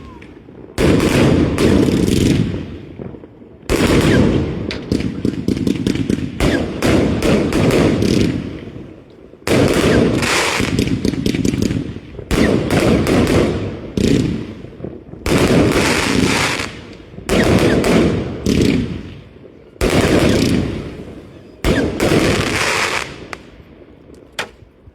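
Fireworks going off: about ten loud bangs in succession, each followed by crackling that dies away over a second or two.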